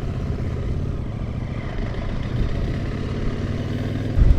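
CFMOTO 800NK motorcycle's parallel-twin engine running steadily as the bike is ridden at low speed, with a short louder surge near the end.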